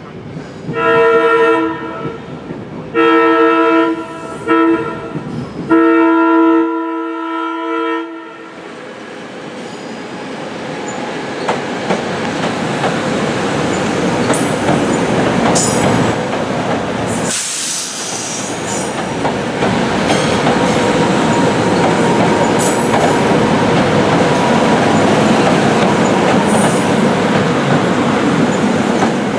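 SEPTA Silverliner IV electric train sounding its chord horn in the long, long, short, long grade-crossing pattern, the last blast held longest. Then the train passes close by with a rising rumble and clatter of wheels on rail, broken by brief high wheel squeals.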